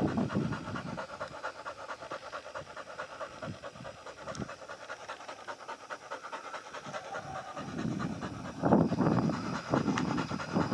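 Pigs snuffling and grunting in quick, short breaths as they root and feed, growing louder about eight seconds in.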